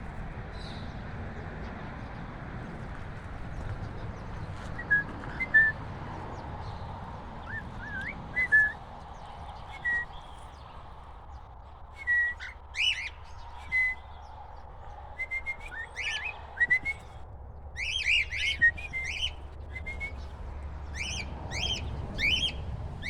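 Cockatiels chirping with short whistled calls, a few scattered ones at first, then coming thick and fast in the second half, over a steady low background noise.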